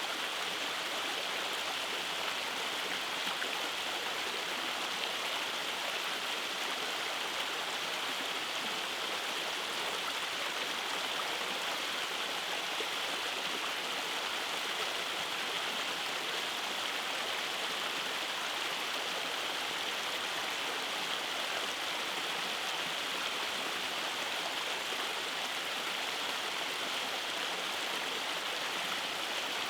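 Rainforest stream running over small waterfalls and cascades, a steady, even rush of water.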